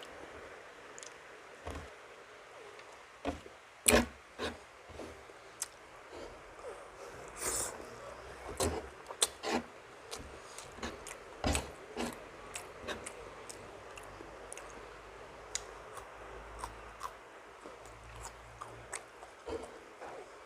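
Close-miked eating sounds: chewing and mouth smacks of someone eating milkfish, with scattered irregular clicks, a few of them louder.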